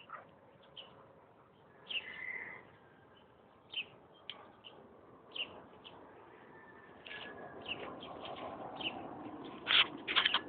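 Dogs fighting: short, sharp yelping cries come every second or two, over a rougher low noise from about seven seconds in, with a cluster of louder yelps near the end.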